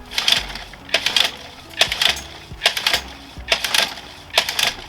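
1991 Johnson 5 hp two-stroke outboard's recoil starter being yanked over and over, about six quick pulls a little under a second apart, each a short rattling whir of rope and ratchet. The engine does not start.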